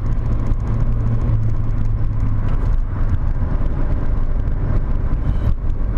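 VW Corrado 1.8 16V's four-cylinder engine running hard at fairly steady revs with the car under way, its low drone dipping slightly in pitch about three seconds in.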